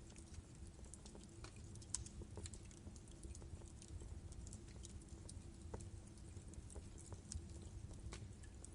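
Wood fire burning in a fireplace: logs crackling and popping with scattered sharp snaps over a low, steady rumble of the flames.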